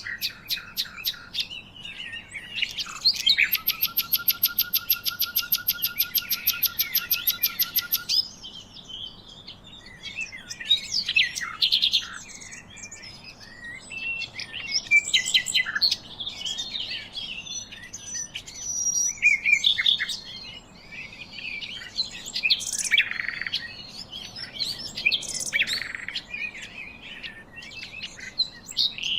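Several birds chirping and singing together. From about three seconds in, one bird gives a fast, even rattling trill for about five seconds, then a mix of varied chirps and short whistles follows.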